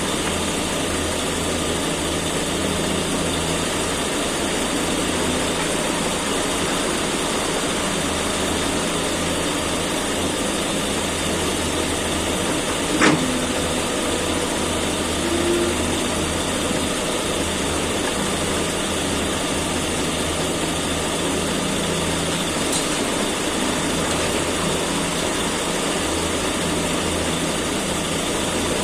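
A Caterpillar excavator's diesel engine runs steadily with a low hum, and there is a single sharp knock about 13 seconds in.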